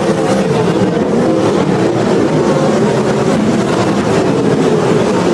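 Sprint car engines running at speed on the track, a loud, steady drone that wavers slightly in pitch.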